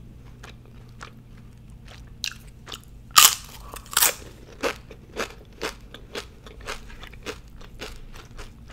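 Close-miked mouth sounds of eating tortilla chips. After a quiet start, crisp crunches come about two and three seconds in, a loud mouth smack follows about four seconds in as fingers are licked, then steady chewing about twice a second.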